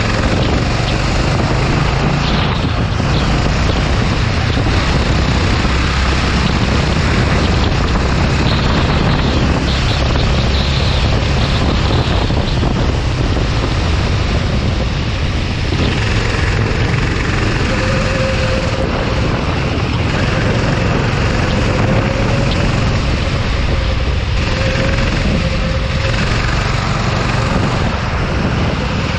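Go-kart engine running steadily under way, with a faint engine note that wavers up and down in the second half.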